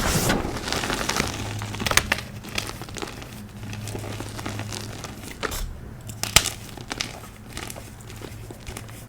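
Dyed pasted gym chalk blocks being crushed, crunching and crackling: a dense crackle in the first couple of seconds, then sparser crunches with single sharp cracks, the loudest a little past six seconds in.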